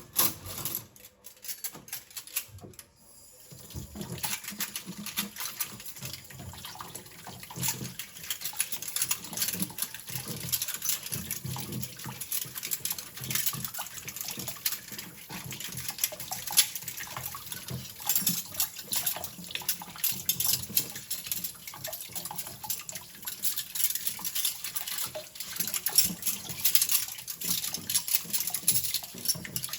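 Kitchen sink tap running water while metal cutlery is scrubbed and clinks in the sink, with many small clicks and knocks. The water starts about four seconds in, after a few clicks.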